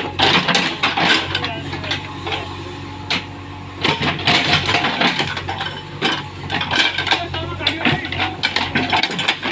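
People talking over a tractor engine running steadily in the background.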